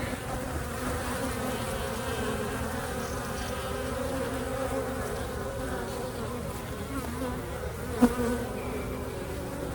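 Honeybees buzzing steadily at an open hive, the dense hum of many bees at once, with one short knock about eight seconds in.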